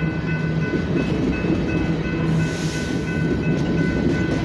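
BNSF mixed freight train cars rolling past: a steady rumble of steel wheels on the rails, with thin high whining tones that come and go.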